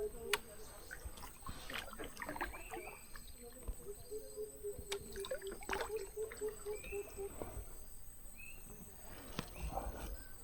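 Coucal calling: a long, even run of deep, low hoots that breaks off about three-quarters of the way through. Soft kayak paddle drips and splashes and a few short, high chirps from another bird.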